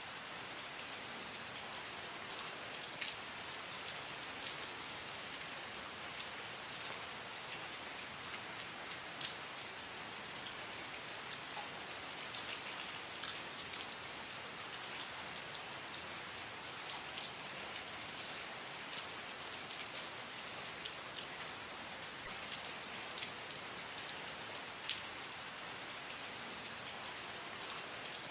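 Steady rain with many individual drops ticking sharply on a hard surface, scattered irregularly over an even hiss.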